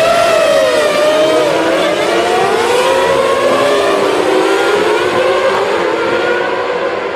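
Several Formula One racing engines revving at once, their pitches rising and falling over one another.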